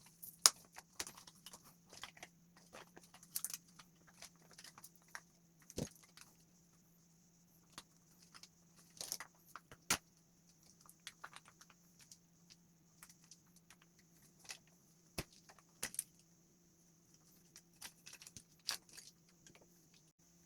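Irregular small clicks and taps of hard plastic parts being handled, set down and fitted while an automatic soap dispenser is taken apart, with a faint steady hum underneath.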